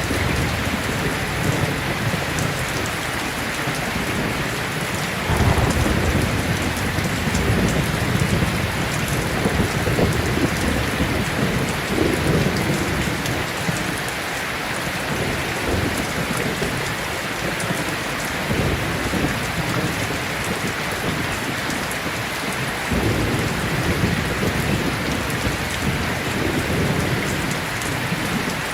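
Heavy rain falling steadily, with low rolling thunder rumbling in waves; the first rumble comes in suddenly about five seconds in.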